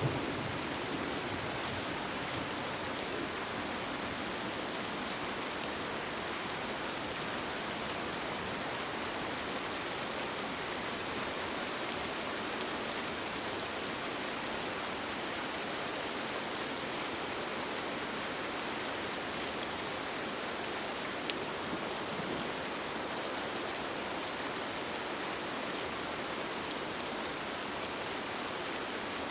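Steady rain falling on a tent, an even hiss with scattered drop ticks. A low rumble of thunder dies away at the start.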